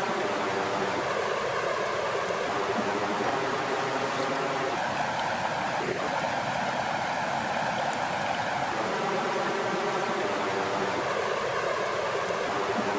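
Steady rush of flowing water, like a stream or water running at a lake shore, even in level throughout.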